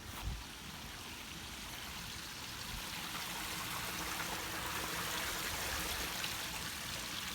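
Steady hiss of rain, growing a little louder through the middle.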